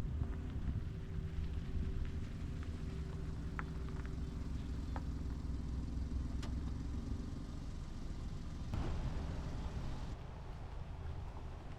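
A car engine running steadily with an even low hum, with a few small clicks and a brief rush of noise about nine seconds in.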